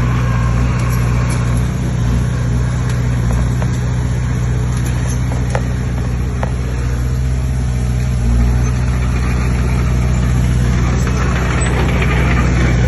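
Diesel engine of heavy earthmoving machinery, a bulldozer or dump truck, running steadily at a constant speed, with a couple of faint clicks about halfway through.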